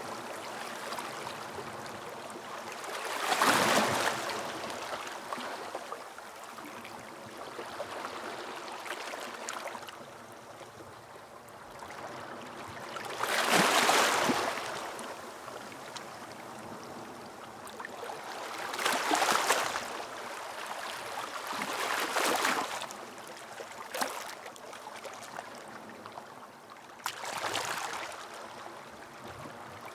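Sea waves breaking and washing up a beach: a steady wash with about five surges that swell and fall back, the loudest about four seconds in and about halfway through.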